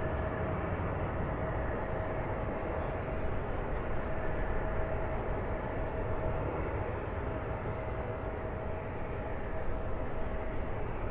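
Jet airliner engines at takeoff power, a steady rumble with a steady whine over it: a Southwest Boeing 737 departing the runway.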